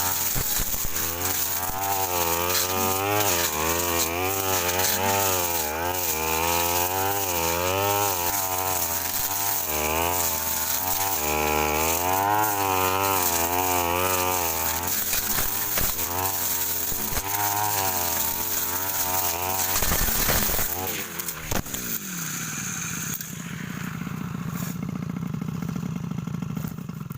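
Petrol brush cutter engine running at high revs, its pitch rising and falling as the blade cuts through brush. About 21 seconds in the throttle is released and the engine winds down to a steady idle.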